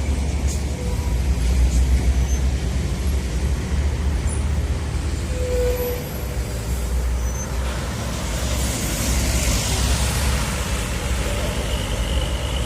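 Heavy road traffic of buses and trucks passing, with a steady deep engine rumble and a long hiss from about eight to eleven seconds in.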